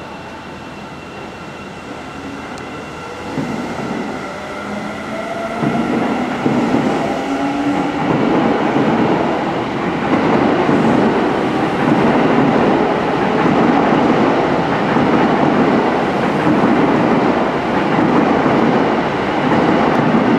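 Seibu 9000-series electric train pulling out and passing close beneath, growing louder. Its motor whine rises in pitch in the first seconds, then gives way to a steady, loud running rumble of wheels on rails with rail-joint clatter.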